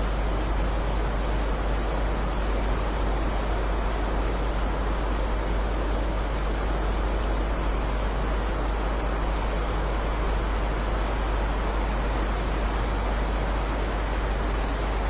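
Steady heavy rain: an even, unbroken hiss over a deep low rumble, with no thunder or single drops standing out.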